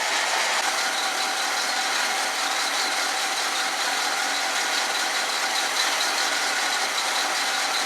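1976 Pontiac Firebird Formula's carbureted V8 idling steadily, still cold from the start with the choke partly open. It runs a hair slow, which the owner puts down to dirt or varnish in the long-unused carburetor working through.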